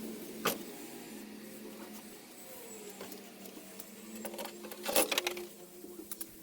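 Metal hand tools clicking on an engine's cylinder head during assembly: one sharp click about half a second in, then a quick run of ratchet-like clicks about five seconds in, over a steady low hum.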